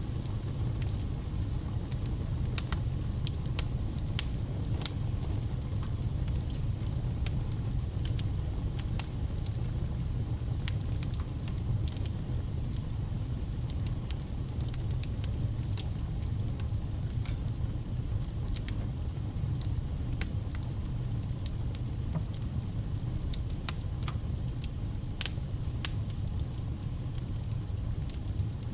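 Wood fire burning: a steady low rumble of flames with frequent sharp crackles and pops of burning logs scattered throughout.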